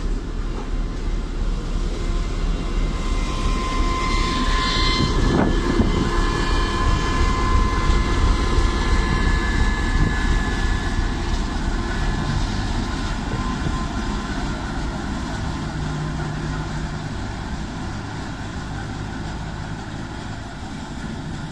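A train passing close by: steady rumble and rail noise with high whining tones over it, growing louder to a peak about eight seconds in and then slowly fading.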